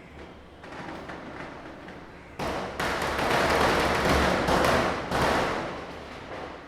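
Firecrackers going off in a rapid volley: a fainter patter of pops, then a loud, dense crackle of bangs starting about two and a half seconds in and dying away near the end.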